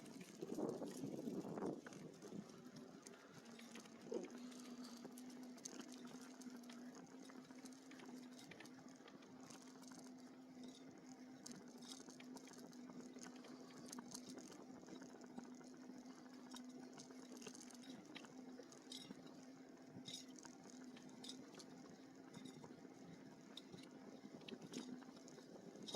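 Faint, steady hum of a small electric motor holding one pitch, starting about three seconds in, with scattered light ticks over it.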